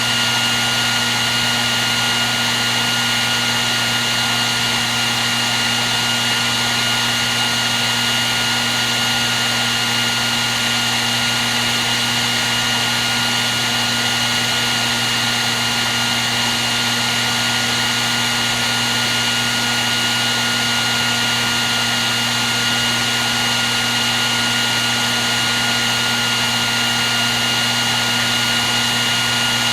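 Electric hair dryer running at a steady speed: an even rush of air with a low motor hum and a thin high whine.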